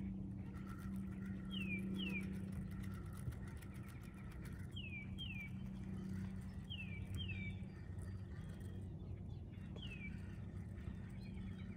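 A songbird whistling clear downslurred notes, mostly in pairs, over a steady low hum.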